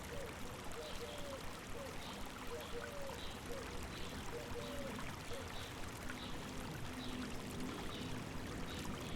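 River water running steadily, with a bird giving short high chirps over and over, about one or two a second.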